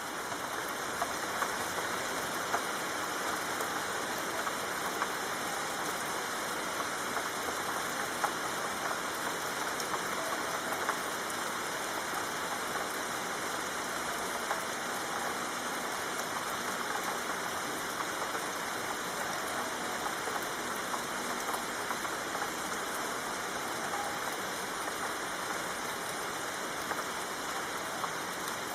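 Steady rain falling: an even hiss of rainfall with scattered individual drop ticks.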